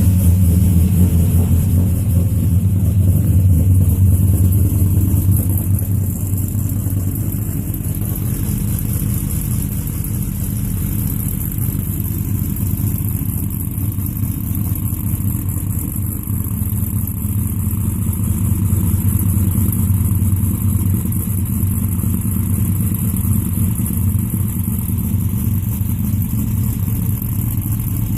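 Cammed LS V8 in a 1997 work truck idling just after start-up, a steady low engine note that is a little louder for the first several seconds before settling.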